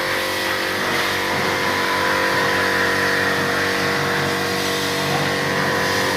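Steady mechanical drone with a constant whine, from machinery running without a break.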